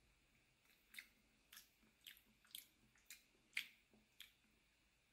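Faint, wet mouth clicks of someone chewing a bite of mushroom cold-cut sausage, about two a second, the loudest a little past the middle.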